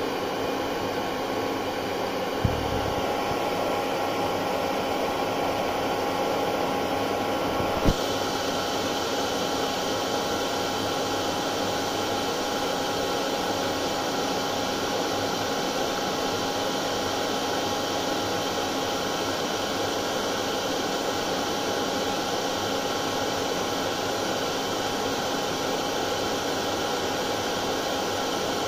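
Hair dryer running continuously: a steady rush of air with a constant motor hum and whine. A brief low thump comes about two and a half seconds in, and a sharp click near eight seconds, after which the high hiss is slightly fuller.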